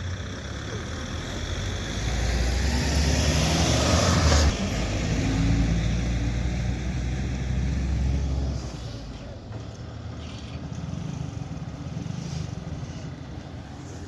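A motor vehicle's engine running close by, growing louder over the first few seconds, changing note suddenly about four and a half seconds in, then dropping away sharply about eight and a half seconds in.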